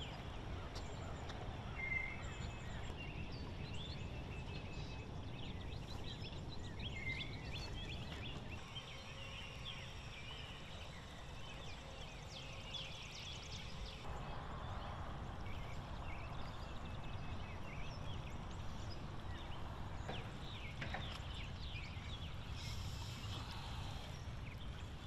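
Birds chirping and calling throughout, many short high chirps and whistles over a steady low rumble.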